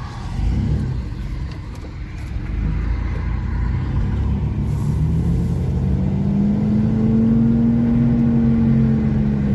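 1989 Chevy S10 Blazer's 4.3 V6 accelerating: a low rumble that builds and rises steadily in pitch over several seconds, levelling off and dipping slightly near the end.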